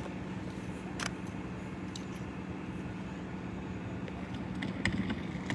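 A vehicle engine idling: a steady low rumble with a constant hum, and a few faint clicks.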